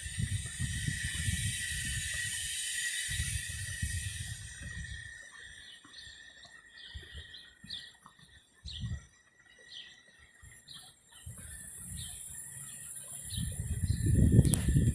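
A small bird chirping repeatedly, a string of short high chirps, with gusts of wind buffeting the microphone at the start and again near the end.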